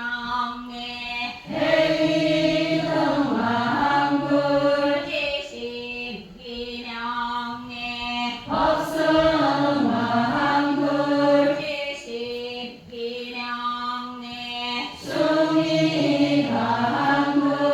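Many voices chanting the names of the Buddhas in Korean Buddhist style. A sung phrase comes back about every six to seven seconds, with a steady low held tone between the phrases.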